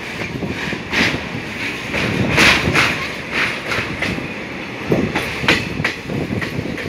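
Passenger train running, its wheels clattering over the rails with irregular sharp knocks over a steady rumble.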